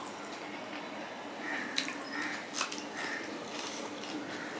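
Close, wet chewing and lip-smacking of a mouthful of rice and fried hilsa, with a few small sharp clicks and the soft squish of fingers mixing rice on a steel plate.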